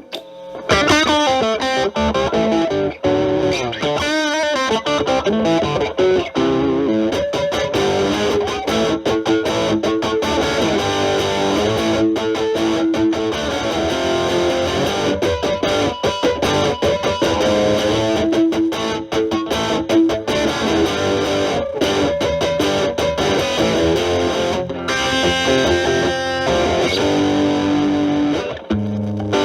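Stratocaster with single-coil alnico pickups played through a Boss DS-1 distortion stacked with an Ibanez TS9 Tube Screamer as a gain booster, into a Marshall Valvestate amp: distorted single-note lead lines with string bends and vibrato.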